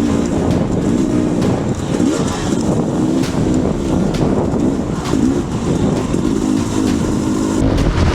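Dirt bike engine revving up and down again and again as the throttle is worked over rough singletrack, with scattered knocks and clatter from the bike over the terrain. About seven and a half seconds in, the sound changes to a heavier low rumble.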